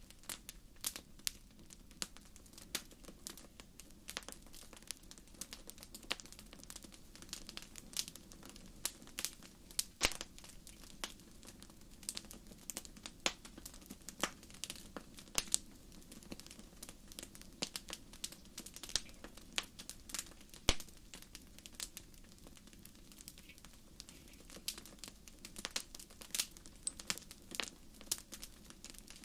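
Wood fire in a fireplace crackling: many sharp, irregular pops and snaps, several a second, over a low steady hiss.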